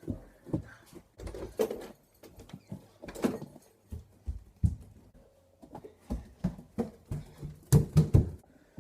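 Irregular knocks, thumps and scuffles in a small room, with a cluster of louder thumps near the end.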